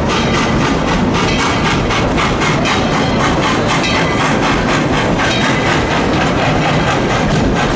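Tweetsie Railroad's narrow-gauge steam train running along the track, heard from on board: a loud, steady rumble with a quick, regular clatter.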